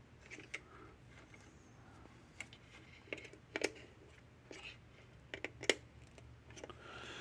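Faint, scattered light clicks and taps of test probes and fingers on a fence charger's circuit board as its diodes are checked, over a faint steady hum.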